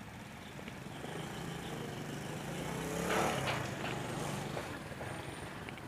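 Passenger train running past at a distance: a steady low rumble that swells to a louder rush about three seconds in, then eases.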